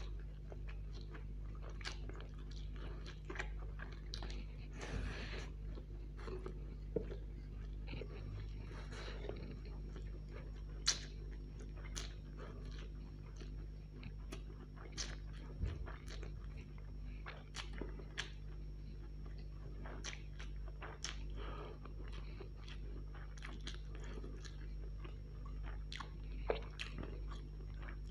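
Chewing and biting as a man eats chow mein noodles and then bites into a fried chicken leg. Frequent short, sharp crunches are scattered throughout, over a steady low hum.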